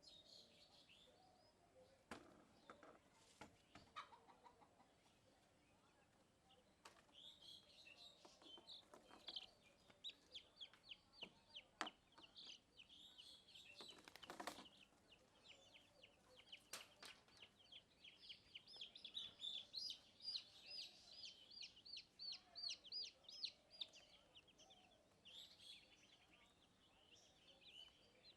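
Chicks peeping: rapid, high cheeps in runs, densest and most regular in the second half, with a few sharp knocks in the middle.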